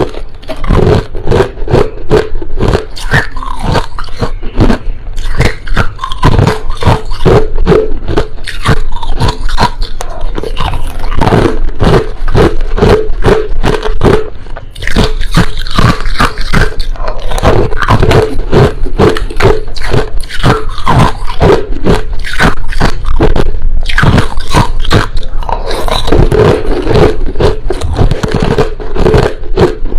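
Crushed ice being chewed close to the microphone: loud, dense, rapid crunching that runs on almost without pause, easing briefly about halfway through.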